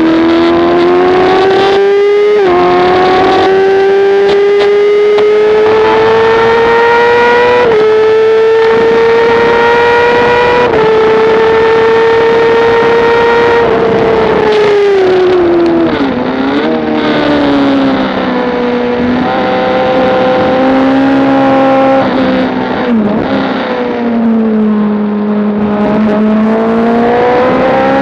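Motorcycle engine at high revs on a track lap. Its pitch climbs under acceleration and steps down at upshifts about 2½, 8 and 11 seconds in. Just past the midpoint it falls away with short throttle blips on the downshifts, then climbs again under acceleration near the end.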